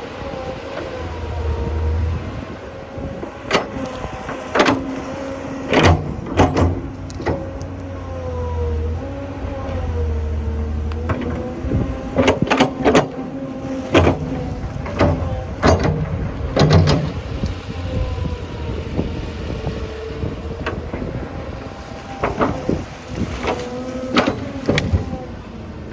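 Tractor engine running under load, its revs rising and falling, with repeated heavy knocks and clanks in several clusters as the machine digs.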